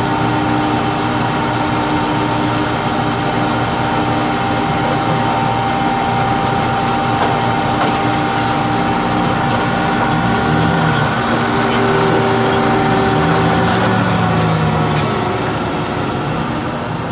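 Engine of heavy scrapyard machinery running steadily with a constant hum. In the second half its low note wavers up and down, as if the engine is taking and releasing load.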